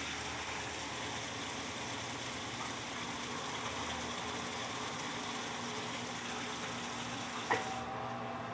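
Electrolux LTC15 washing machine running its stain-removal cycle, a steady churning water and motor noise with a faint hum. A single sharp click comes near the end, followed by a faint steady whine.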